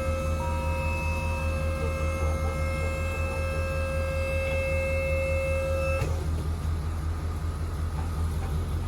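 Truck engine idling with a low, pulsing rumble, under a steady high whine that cuts off suddenly about six seconds in.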